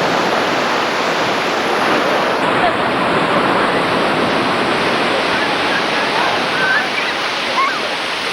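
Sea surf rushing in a steady, loud wash. Faint distant voices come and go in the second half.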